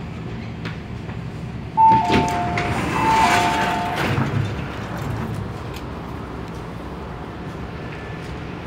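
MTR A-Train door chime: a high note then a lower note, sounded twice in quick succession, over a brief rush of noise as the sliding doors work. Train background hum throughout.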